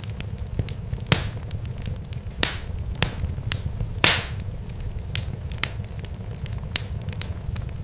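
Irregular sharp crackles and pops, several a second and a few louder than the rest, over a steady low rumble.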